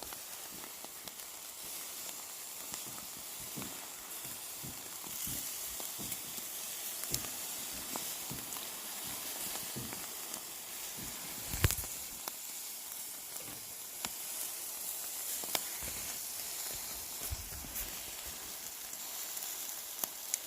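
Marinated pork sizzling on a wire grill over a charcoal fire: a steady hiss with scattered small crackles, and one louder click about halfway through.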